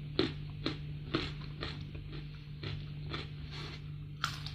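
Close-miked crunchy chewing of raw young jengkol, about two crunches a second, followed near the end by a sharper crunchy bite into fried salted fish.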